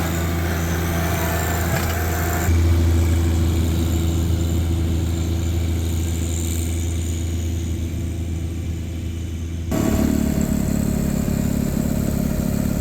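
Tractor engine running steadily, driving a rear-mounted snowblower through its PTO. The engine note steps up a little a few seconds in, and near the end it changes abruptly to a louder, pulsing running sound.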